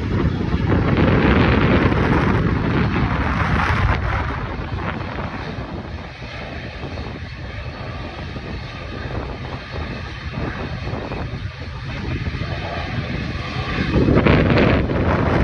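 Aircraft engines at power during an aborted landing (go-around) in high winds, mixed with gusty wind buffeting the microphone. It is loudest in the first few seconds, eases off, and swells again near the end.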